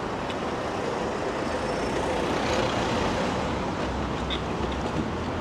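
Steady road traffic noise, swelling a little in the middle.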